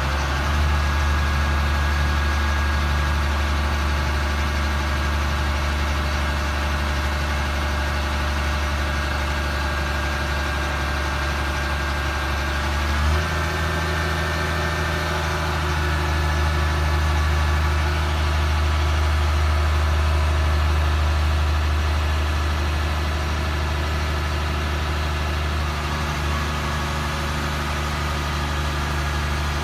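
2004 Ford F750 crane truck's engine idling steadily, with a slight change in its note about halfway through.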